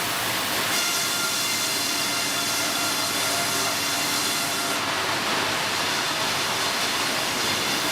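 Sawmill head-rig bandsaw cutting a log: a steady, noisy whine with several thin high tones, which start about a second in.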